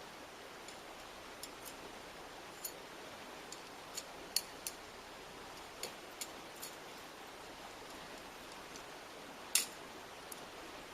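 Wood campfire crackling: irregular sharp pops and snaps over a steady background hiss, with one louder pop near the end.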